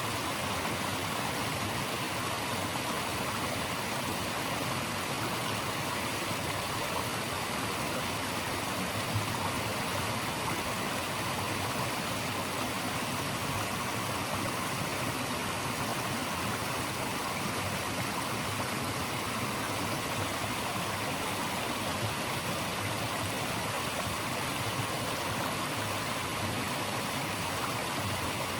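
Steady, unbroken rush of running water, an even hiss with no distinct splashes or events.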